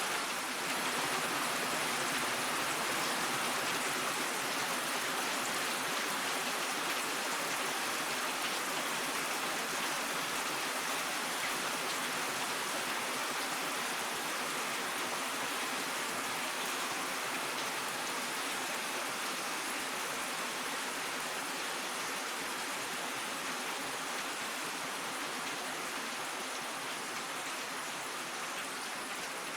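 Steady rainfall, an even hiss of many drops with no single drop or thunderclap standing out.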